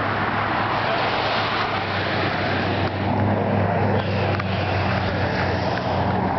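Steady vehicle noise: a constant rush of traffic with a low, even engine hum underneath that grows a little stronger about halfway through.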